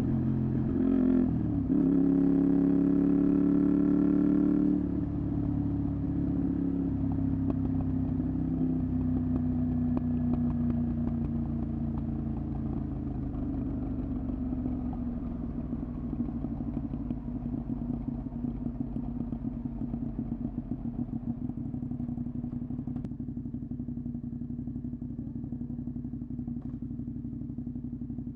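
Honda VTR250's V-twin engine through a Moriwaki exhaust, pulling under throttle with a brief break about a second in, like a gear change. The throttle closes about five seconds in and the note falls away as the bike slows, then settles into a quieter, steady low running beat for the rest.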